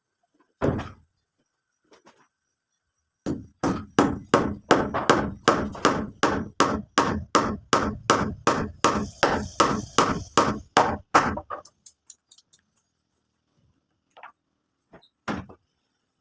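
A hand tool striking hard and repeatedly: one blow, then a quick steady run of about three blows a second for some eight seconds, and a few lighter knocks near the end.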